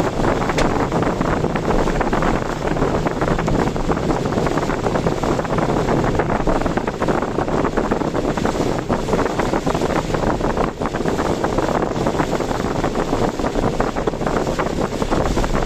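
Steady, loud rush of typhoon wind on the microphone of a car on the road, mixed with the car's road noise.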